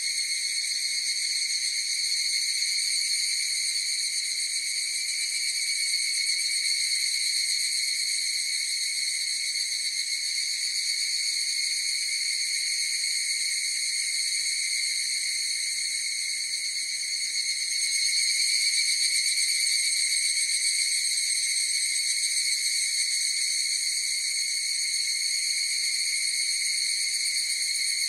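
Higurashi (evening cicadas) calling in chorus: a steady, high-pitched ringing drone that swells slightly about two-thirds of the way through.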